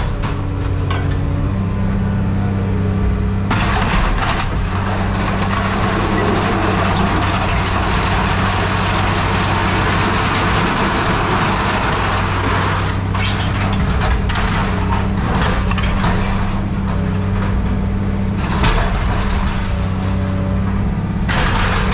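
A machine's engine running steadily, with a loud rushing hiss from about three and a half seconds in to about thirteen seconds, and scattered sharp knocks and cracks of metal being handled or crushed.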